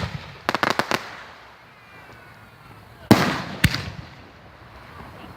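Fireworks going off: a quick run of sharp cracks in the first second, then about three seconds in a loud bang followed half a second later by another crack, each trailing off in echo.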